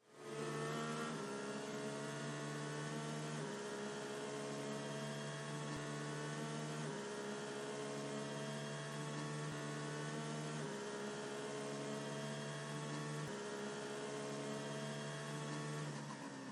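A steady electronic drone of several layered tones that drift slowly upward in pitch and shift together every three or four seconds, used as a puzzle-timer background.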